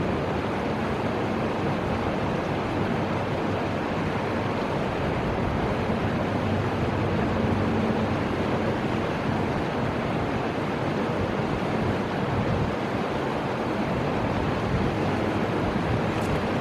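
Steady rushing of flowing river water and wind, an even noise without swells.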